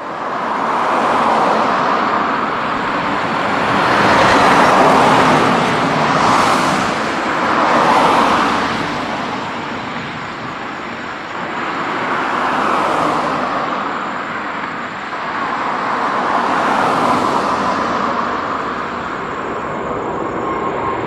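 Jet airliner taking off, a loud, broad steady roar of engines and rolling noise that swells and eases every few seconds, with a faint steady whine coming in near the end.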